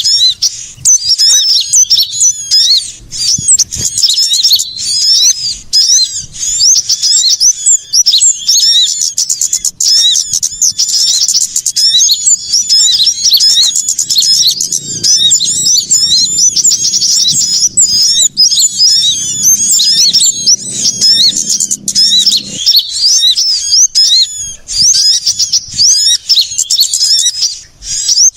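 Dense, continuous chirping and twittering of many small songbirds calling all at once, a busy mix of short high-pitched rising and falling calls used as a lure recording to draw small birds in.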